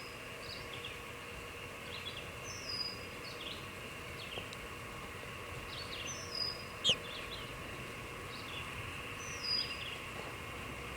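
Birds calling: a short whistle that drops in pitch, repeated about every three seconds, with scattered chirps and one louder, sharply falling call about seven seconds in, over a steady faint background hum.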